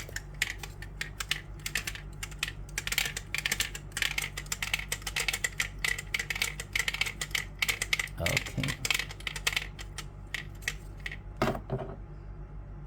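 Rapid, irregular clicking of a pecking chicken toy's four chickens tapping their beaks on the laser-cut board as the weighted ball swings in a circle beneath, all of them pecking freely. The clicking dies away near the end.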